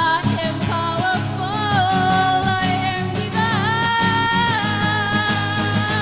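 Live song: a voice singing long, held notes with vibrato and pitch glides over strummed acoustic guitar.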